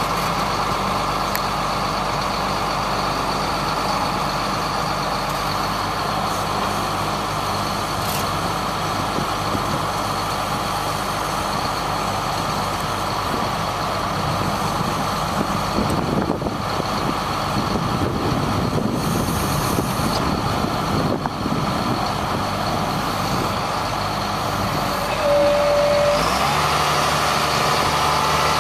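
The engine of a 1999 GMC digger truck running steadily. Near the end the engine note shifts and runs a little louder.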